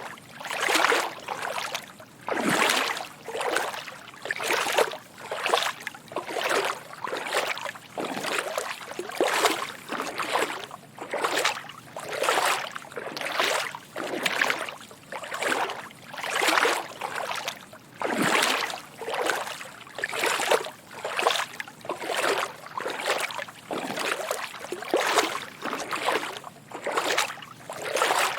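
Footsteps wading through shallow water: a steady walking rhythm of soft sloshing splashes, a little more than one step a second.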